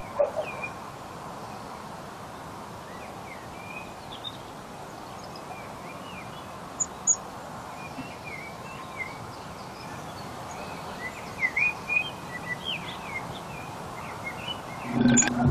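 Small birds chirping and calling here and there, mostly short high chirps, over a steady low hum of quiet city ambience.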